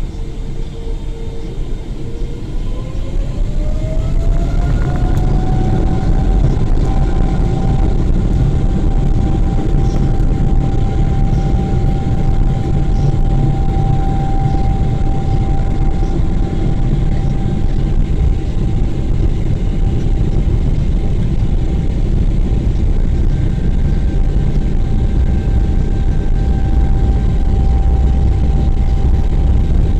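Airliner's jet engines heard from inside the cabin during takeoff: a loud, steady rumble that swells over the first few seconds, with an engine whine that rises in pitch a few seconds in and then holds steady.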